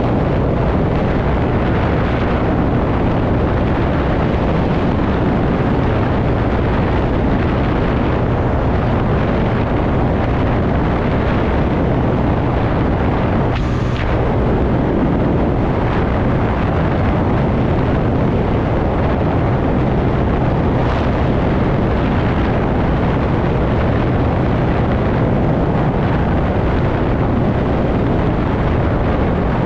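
Steady, loud wind rush on the microphone with the engine and road noise of a TVS Ntorq scooter being ridden. About halfway through there is a brief sharper sound with a falling pitch.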